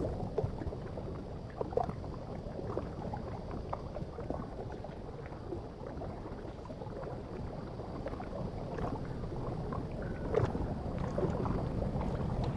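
Underwater ambience: a steady low rumble and hiss with faint, short chirps and blips scattered throughout, a little louder near the end.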